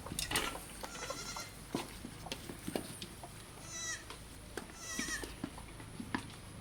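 Goats bleating: a few short, high, wavering bleats, about a second in, near four seconds and near five seconds, among scattered light knocks and clicks.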